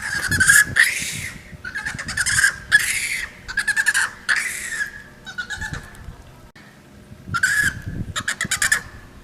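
Monkey calling: a string of short, high calls through the first five seconds, a pause, then a fast stuttering run of calls near the end.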